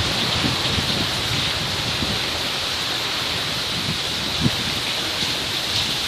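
Steady rain falling, an even hiss with a few dull knocks of drops landing close by, one louder about four and a half seconds in.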